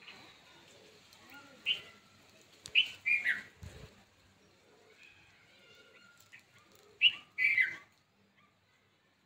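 Birds chirping: short, falling calls in two clusters, one about two to three seconds in and one about seven seconds in, over a faint outdoor background.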